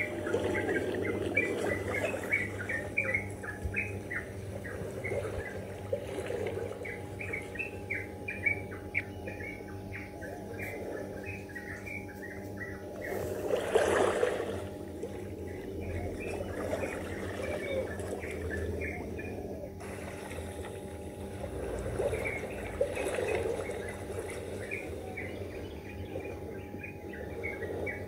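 Small birds chirping in quick, repeated calls over the soft wash of small waves lapping the shore, with one brief louder rush of noise about halfway through.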